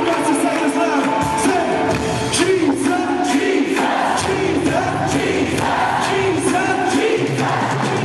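Live worship band playing, with a lead singer and a crowd singing along, over a steady drum beat.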